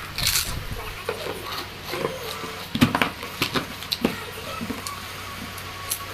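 A person eating: chewing and wet mouth sounds with scattered clicks of a spoon against a plate.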